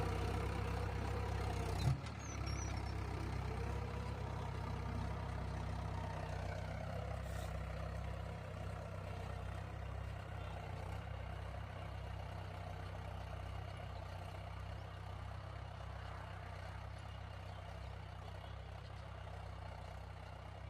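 Tractor engine running steadily, slowly growing quieter, with one sharp knock about two seconds in.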